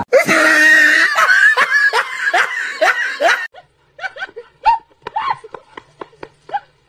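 A person laughing hard in quick rhythmic bursts for about three and a half seconds, then fainter short falling calls.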